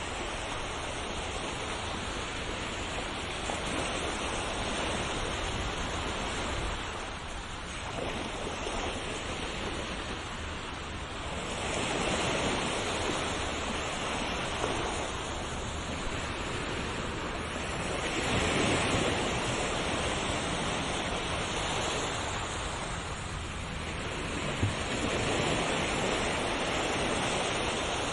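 Ocean waves breaking on a shore: a steady wash of surf that swells and falls back about every six seconds.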